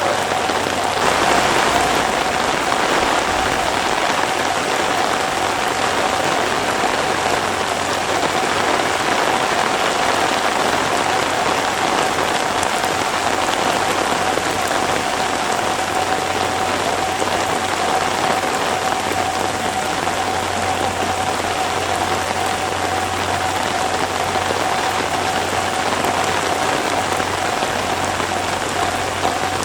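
Heavy typhoon rain falling steadily, a dense even hiss of drops on surfaces, with a faint steady tone running under it.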